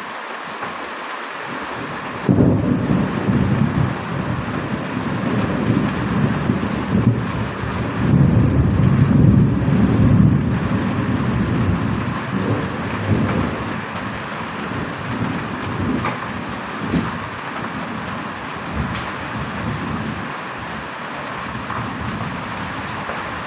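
Heavy rain falling steadily. A roll of thunder breaks in suddenly about two seconds in, is loudest about nine to ten seconds in, then rumbles away slowly.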